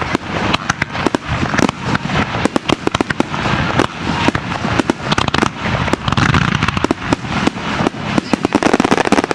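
Aerial fireworks going off in a dense, continuous volley: many sharp bangs and crackling bursts in quick, irregular succession.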